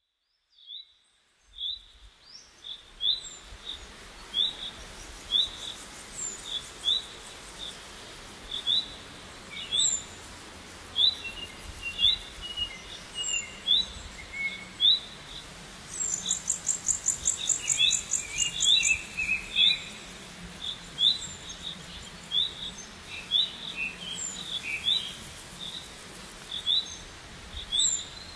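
Birds chirping: a short, high chirp repeats about once a second over a faint steady background, and a quicker, buzzier high trill joins from about 16 to 20 seconds in.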